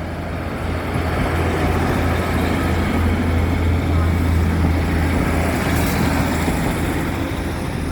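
Train running at the station: a steady low hum under a broad rushing noise, swelling a little through the middle and easing near the end.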